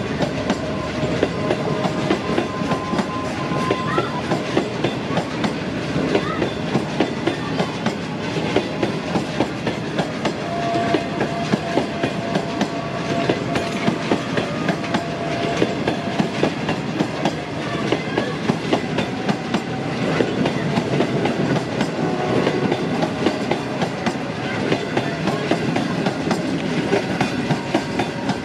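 Pakistan Railways express passenger coaches running through a station at speed. The wheels give a steady, rapid, rhythmic clickety-clack over the rail joints above a continuous rumble.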